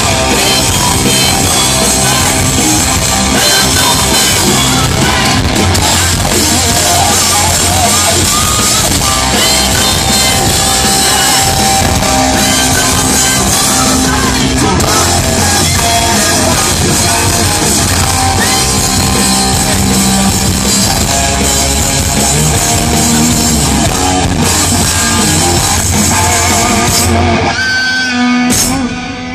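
A live rock band playing loud, with electric guitar and drum kit, ending near the end.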